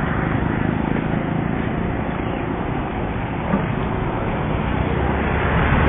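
Vehicle driving along in the rain: a steady low engine hum under an even haze of road and rain noise, growing a little louder near the end.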